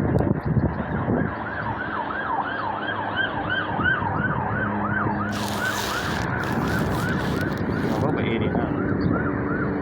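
A gull calling, a long run of short yelping notes at about three a second. A loud hiss from about five to eight seconds in.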